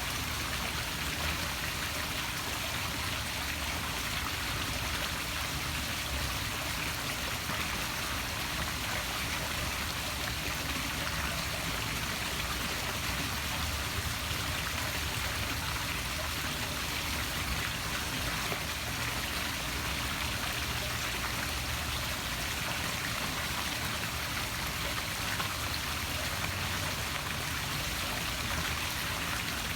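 Poolside waterfall splashing steadily into a pool, a continuous even rush of falling water.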